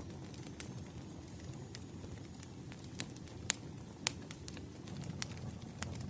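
Campfire of burning firewood crackling: sharp, irregular pops over a low, steady rumble of the flames, the loudest pops about three and a half and four seconds in.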